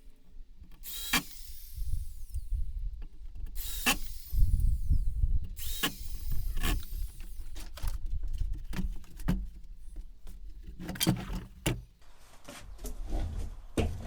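Workshop construction noise: a string of sharp knocks and clicks at uneven intervals over a low rumble, as parts of a wooden stand are handled and fastened.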